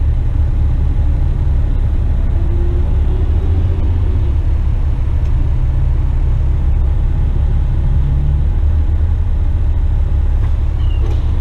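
Western Star tipper truck's diesel engine and road noise while driving: a steady low rumble.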